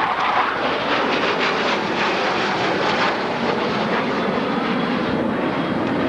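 Jet noise from the twin turbofan engines of US Navy Blue Angels F/A-18 Hornets flying past, a loud steady rush with crackle in the first few seconds.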